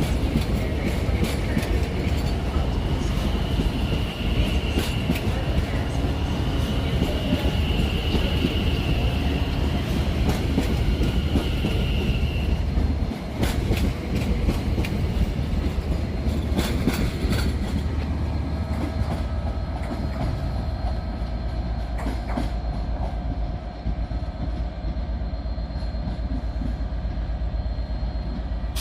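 A train moving through a station, its wheels clattering over rail joints, with a high wheel squeal through the first half. A steady hum from a train's equipment comes up in the second half.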